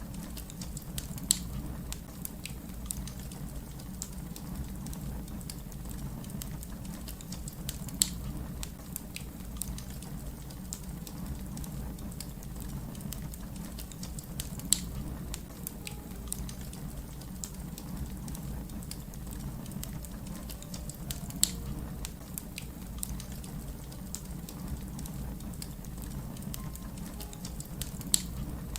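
Wood fire crackling over a steady low rumble, with small crackles throughout and a louder pop about every six or seven seconds.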